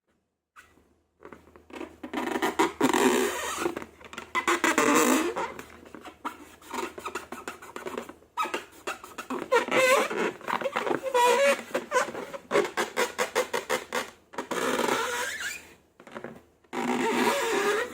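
Hands squeezing and stretching slime, making wet squelches and fart-like squeaks, with quick runs of crackling pops. It starts after about a second of silence.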